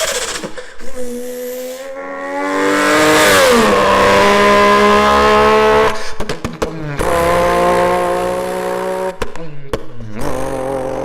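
A person imitating a car flyby with their voice: a buzzing engine note rises, then drops in pitch about three and a half seconds in as the imagined car passes. The held note after it is broken twice by rapid stutters.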